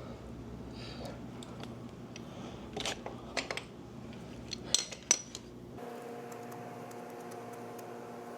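Metal hand tools clinking, a scatter of sharp clinks with the two loudest near the middle, while working at the oil drain bolt of a dirt bike engine. A steady low hum runs underneath and changes abruptly to a higher steady hum about two-thirds of the way in.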